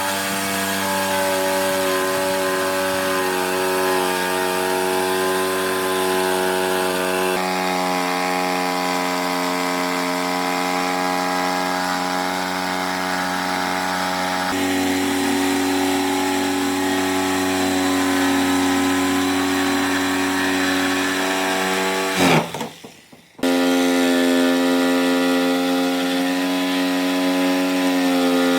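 An electric power tool's motor running steadily with a whining pitch that shifts a couple of times. It stops briefly a little over 22 seconds in, then starts up again.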